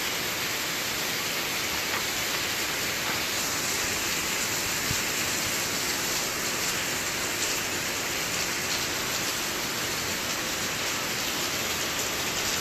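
Heavy rain falling steadily: a dense, even hiss with faint drop clicks here and there.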